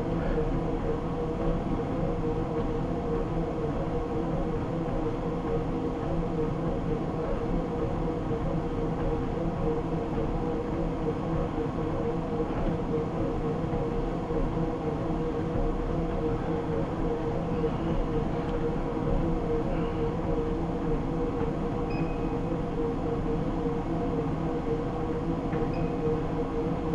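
Treadmill running steadily: an even hum from the motor and belt with a steady mid-pitched tone.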